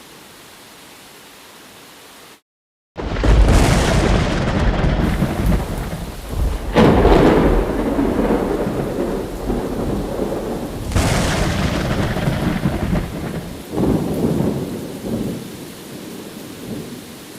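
Thunderstorm sound effect: steady rain, a half-second of dead silence, then a long roll of thunder that swells several times and fades toward the end.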